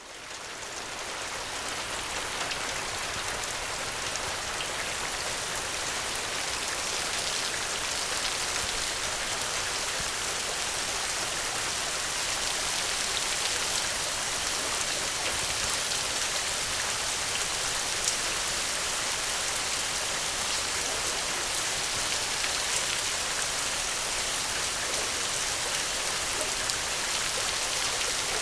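Steady rain with a fine patter of individual drops, fading in over the first second or two and then holding even.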